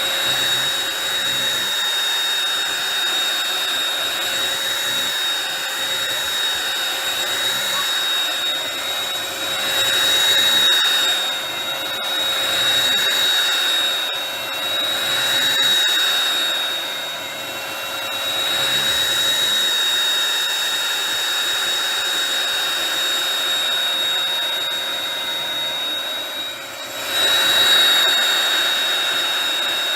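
Bissell Pet Hair Eraser cordless hand vacuum running steadily, its motor giving a high, constant whine over the rush of air, swelling in loudness a few times, most sharply near the end.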